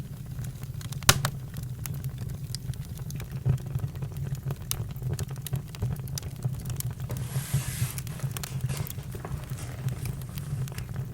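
Campfire crackling: burning wood giving off irregular sharp pops and snaps over a steady low rumble, with a brief hiss about seven seconds in.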